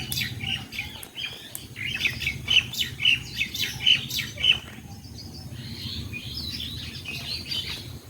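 Ringneck parakeets calling in quick runs of short, sharp chirps, loudest in the first half, then fainter and more scattered.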